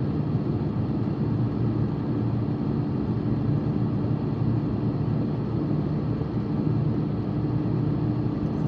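Steady road and engine drone of a car in motion, heard from inside the cabin.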